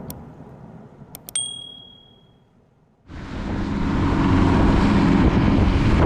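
A fading rumble with a few sharp clicks and a short high ding, then about three seconds in a sudden cut to a fishing boat's engine running steadily with loud wind on the microphone.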